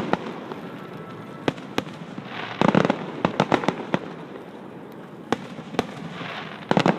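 Fireworks going off: scattered sharp bangs and pops, with two dense bursts of rapid crackling, one about two and a half seconds in and one near the end.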